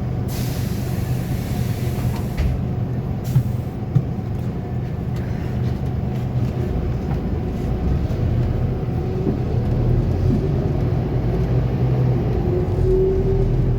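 Scania K280UB city bus's five-cylinder diesel engine and drivetrain running, heard from inside the bus. A burst of air hiss lasts about two seconds near the start, a shorter hiss and two knocks follow around three to four seconds in, and a whine rises near the end.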